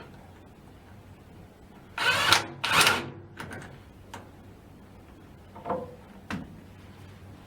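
Two short scraping sounds about two seconds in, then a few light clicks and taps, from hands working metal worm-drive hose clamps onto a rubber shaft-seal sleeve.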